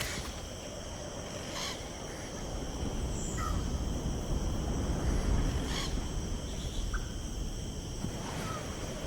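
Outdoor natural ambience: a low, steady rumble of wind with a faint, steady high whine, and a few short bird calls scattered through it.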